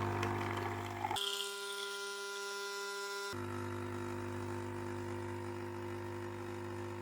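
Nescafé Dolce Gusto coffee machine's pump buzzing steadily while it pushes water through a milk pod. About a second in, the low part of the hum drops away for about two seconds and then returns.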